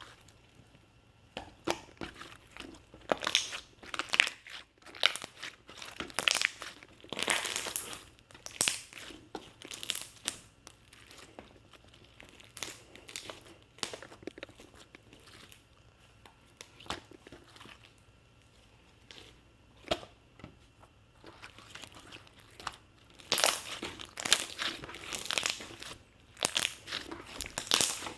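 Irregular crinkling and crunching in clusters of short crackles, busiest at the start and near the end with a quieter stretch in the middle.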